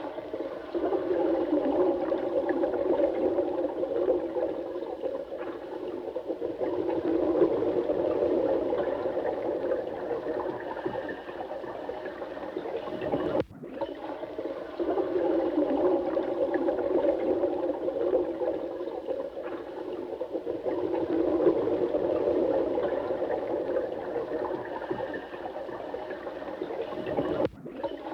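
Running water: a steady rushing flow with most of its sound in the low-middle range. It drops out for an instant about halfway through and again near the end.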